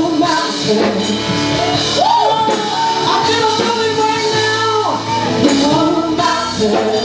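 Gospel worship song: a singer ad-libs long held notes with slides in pitch over the instrumental backing.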